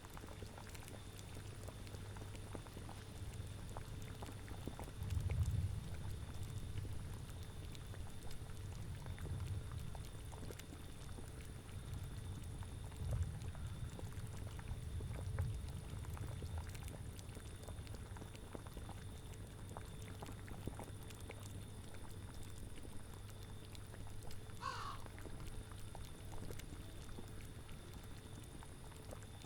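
Cauldron boiling: a steady low bubbling that swells now and then, with one brief animal call near the end.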